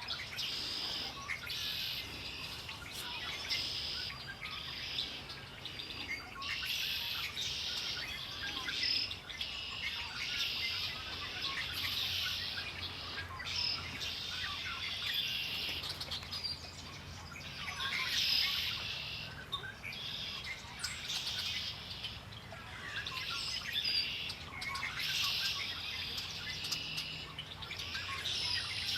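A chorus of wild birds singing and calling at once, with overlapping songs and chirps repeating in short phrases.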